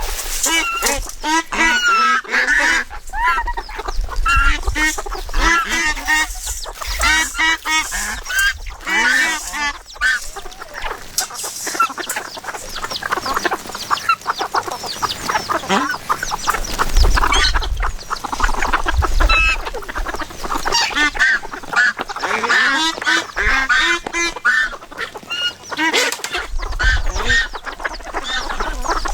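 A flock of farm poultry calling continuously, many short overlapping squawks and honks, with a low rumble now and then.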